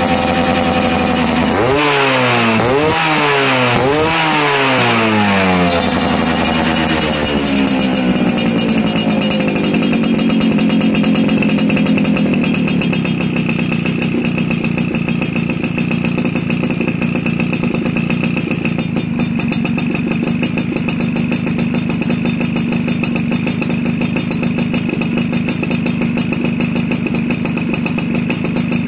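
Yamaha F1ZR two-stroke motorcycle engine running through a racing exhaust. It is held at steady high revs, then revved up and down about four times, drops back over a few seconds and settles into a steady idle.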